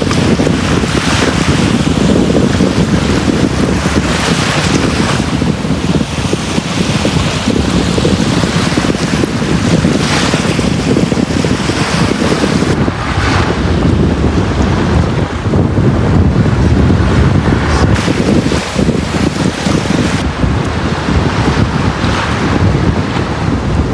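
Sea waves washing onto a beach: a continuous rush of surf that swells and eases every few seconds.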